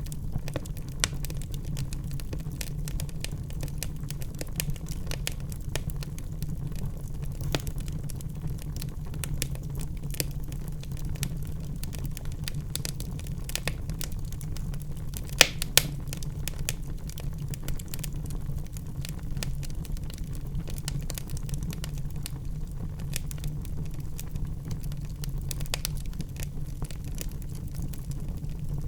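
Wood fire burning in a fireplace: a steady low rumble of flames with continual small crackles and a few louder pops from the burning logs, the loudest about halfway through.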